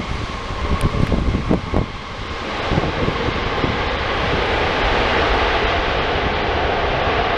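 Jet airliner engines heard from the ground, a steady hiss and rumble that grows fuller about two and a half seconds in, with gusts of wind on the microphone in the first couple of seconds.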